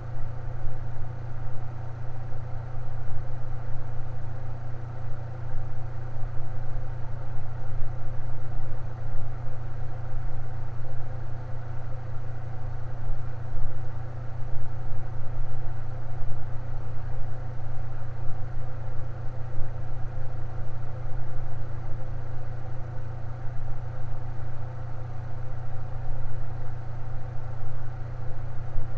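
Electric fan running steadily, a low even hum with faint steady tones above it.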